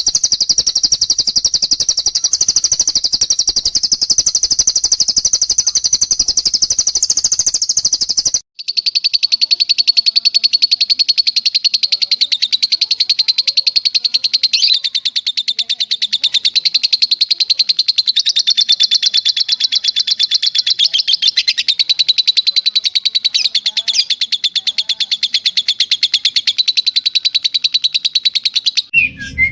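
Recorded cage-bird song: a long, unbroken, high-pitched trill. About eight seconds in it cuts abruptly to a second, slightly lower trill of very fast repeated notes that runs on almost to the end.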